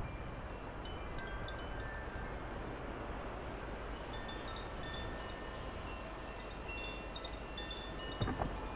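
Wind chimes tinkling with scattered, short, high metallic notes over a steady background hiss of wind.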